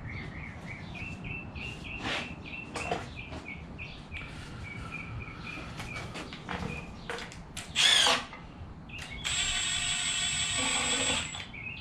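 A handheld power driver runs steadily for about two seconds near the end, driving bolts into the engine during reassembly. Before it, a bird chirps over and over, metal tools click, and there is one brief loud burst of noise about eight seconds in.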